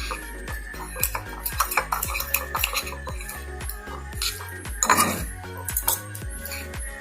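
Cutlery clinking and scraping against a dish as fried noodles are stirred, in quick irregular clicks, with a louder clatter about five seconds in. Background music plays underneath.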